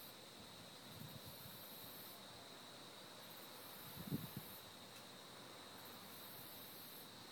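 Faint, steady outdoor background hiss with a constant high thin tone and a very high layer that swells and fades every couple of seconds. A brief soft low bump comes about four seconds in.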